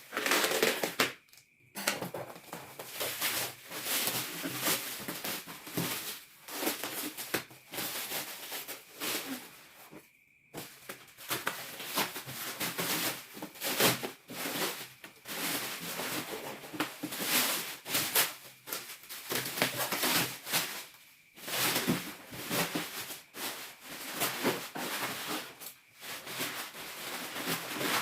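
Packaging being pulled off and torn open by hand: irregular rustling, crinkling and scraping of wrapping material, with a few brief pauses.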